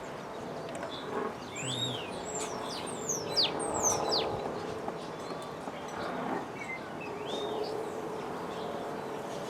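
Birds chirping: a quick run of whistled calls sweeping up and down about two seconds in, and a few more past the middle, over a steady low hum.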